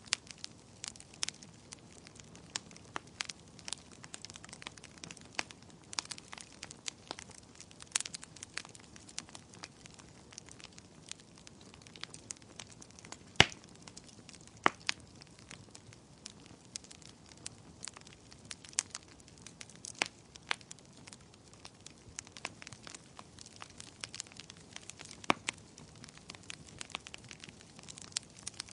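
Wood fire crackling: irregular sharp pops and snaps over a soft low hiss, with one louder pop about halfway through.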